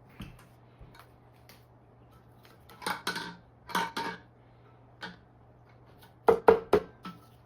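Metal clinks and knocks as the rotor of an e-bike hub motor is worked down into its housing, with scattered single knocks and a quick run of louder knocks a little past six seconds in.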